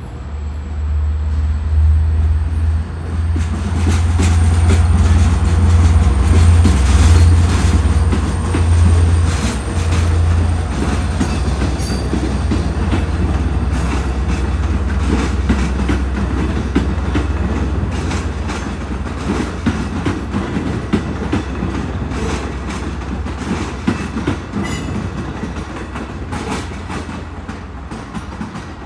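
A diesel-hauled commuter train with bilevel coaches passing close by. A heavy low engine rumble is loudest in the first ten seconds, then the wheels rumble and click steadily over the rail joints as the coaches roll past.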